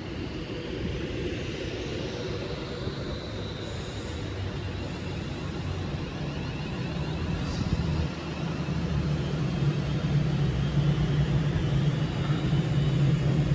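Class 350 Desiro electric multiple-unit train running through the station. A steady low hum grows louder in the second half, with a faint high whine in the first half.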